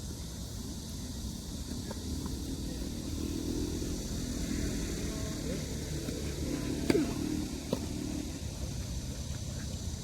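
A sharp single hit about seven seconds in, typical of a tennis ball struck by a racket, followed by a smaller knock under a second later. Underneath is a steady low rumble with a vehicle passing, swelling and fading in the middle.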